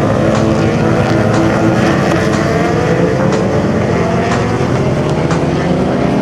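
Motorcycle engine running hard at high revs, its pitch climbing slowly and steadily as it accelerates.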